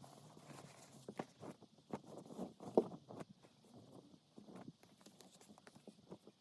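Irregular light taps and knocks, a few a second, the loudest just under three seconds in.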